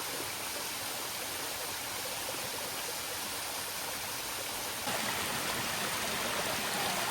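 Steady rush of running water, like a stream or small waterfall, getting louder about five seconds in.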